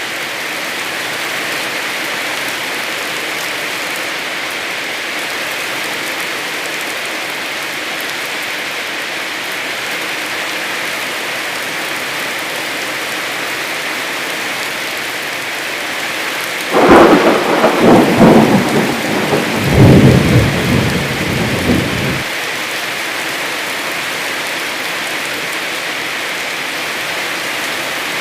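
Heavy rain falling steadily. About seventeen seconds in, a loud thunderclap breaks in and rumbles for about five seconds, then cuts off suddenly.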